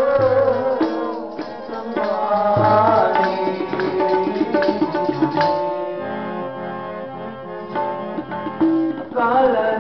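Kirtan accompaniment: tabla drumming under a harmonium melody of held notes that step from pitch to pitch.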